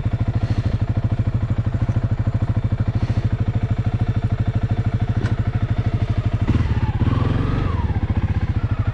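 Honda CRF300L's single-cylinder four-stroke engine idling with an even beat, then revving up and back down once near the end as the bike pulls away in first gear on snow.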